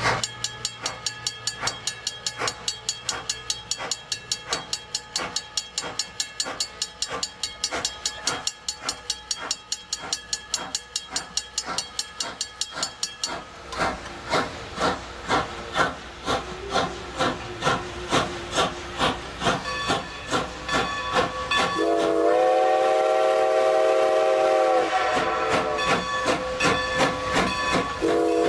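Strasburg Rail Road No. 90, a 2-10-0 steam locomotive, working with a steady exhaust chuff that slows after the first half, then blowing a chord on its steam whistle for about three seconds, and starting to sound it again at the very end.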